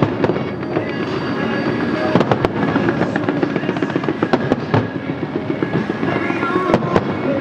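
Aerial fireworks display: dense crackling from bursting shells, with a handful of sharp bangs scattered through.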